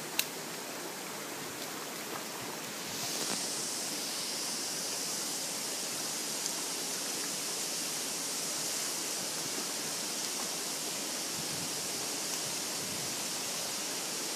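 Rushing water of a mountain stream and its falls, a steady hiss that grows louder and brighter about three seconds in. A single sharp click just after the start.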